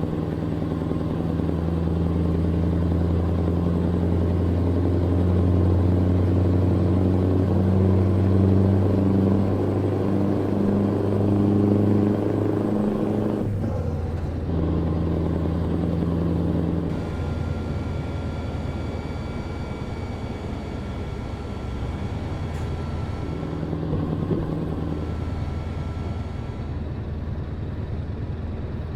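Truck engine running while driving, its pitch climbing in steps over the first dozen seconds, then dropping sharply about halfway through. A faint thin high whine runs through the second half.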